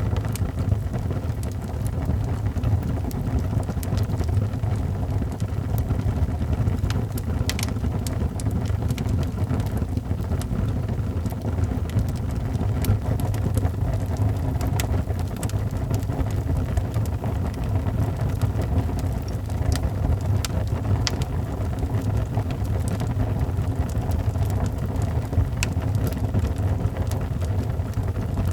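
Wood fire crackling in a fireplace: a steady low rumble of burning with scattered sharp pops and crackles.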